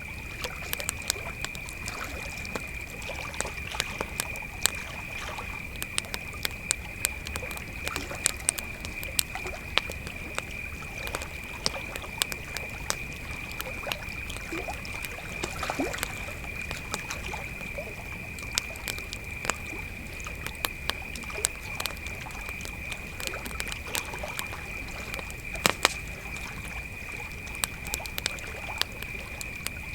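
Crickets trilling in one steady, unbroken high tone, over a wood campfire crackling with irregular sharp pops, a few louder ones about two-thirds of the way through.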